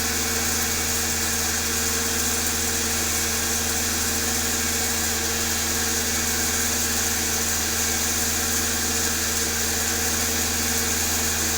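Old desi diesel engine running steadily at idle, with an even, unchanging note.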